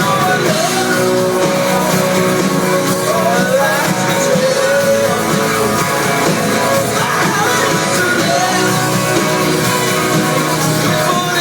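Rock band playing live at full volume, with singing and gliding melodic lines over the band.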